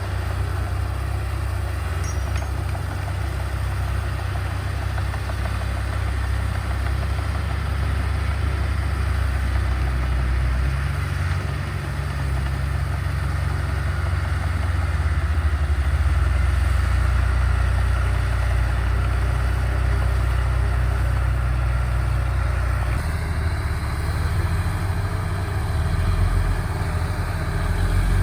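Heavy-equipment diesel engine running steadily, its low drone changing pitch a couple of times as the load varies.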